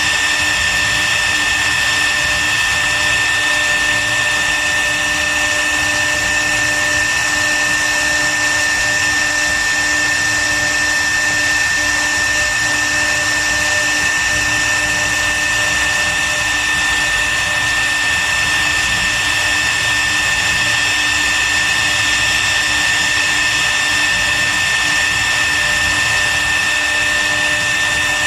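CNC wood router's spindle running steadily, giving a high whine over an even machine noise.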